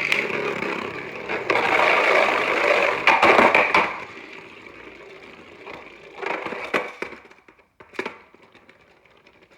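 Beyblade Burst top with a Drift driver spinning in a plastic stadium after launch, the driver scraping loudly across the floor with a steady high whine and sharp clacks. It quietens after about four seconds, with a few louder clacks near the end.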